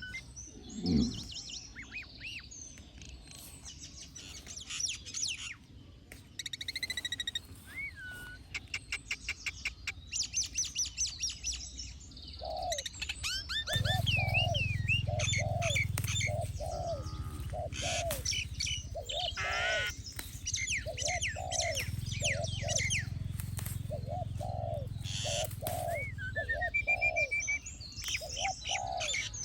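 Several birds chirping and trilling, with a short low thud about a second in. About halfway through, a steady run of short, lower repeated calls joins in.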